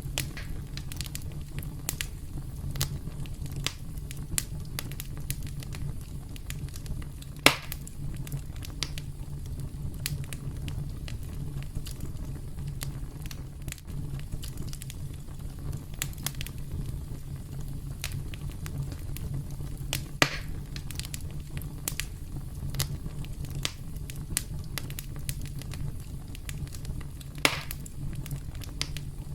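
Campfire burning: a steady low rumble of flames with irregular crackles, and three louder pops from the burning wood, about 7 seconds, 20 seconds and near the end.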